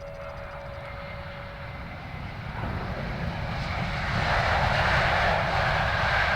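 Jet airliner's engines growing louder as the aircraft comes closer, from about two and a half seconds in, with a high steady whine over the noise near the end.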